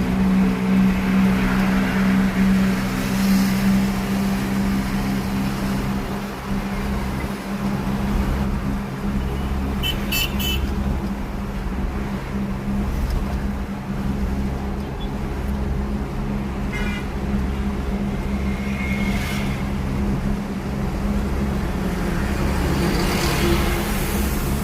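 Engine of a motor vehicle running with a steady hum, with a few brief high pitched toots or chirps midway through and later on.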